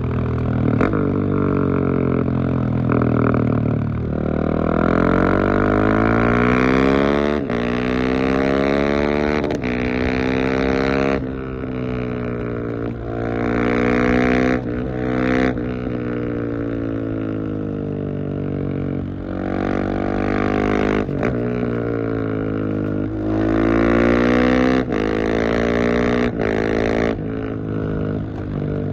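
Husqvarna 701 Supermoto's single-cylinder engine through a LeoVince exhaust with dB-killer, running loud and revving up and down over and over, its pitch climbing and falling, with several sharp breaks between pulls.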